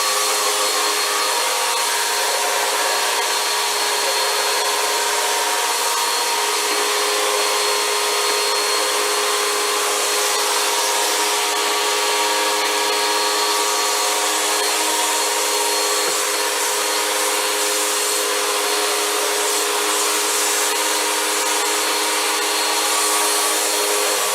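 Vacuum cleaner running steadily with its hose, the motor whine and rush of suction holding an even level throughout.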